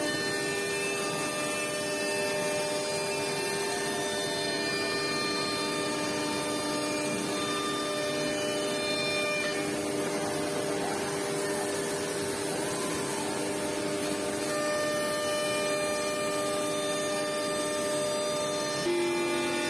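Five-axis CNC woodworking machine running, giving a steady whine of several tones over a hiss; the tones shift near the end.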